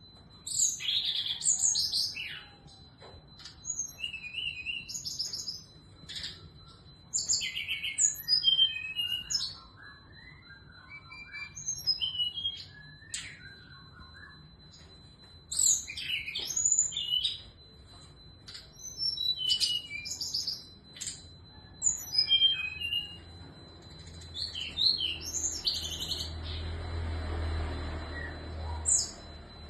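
Female brown-chested jungle flycatcher singing: repeated short phrases of quick, high whistled notes with brief pauses between them. A faint steady high whine runs underneath, and a low rumble comes in near the end.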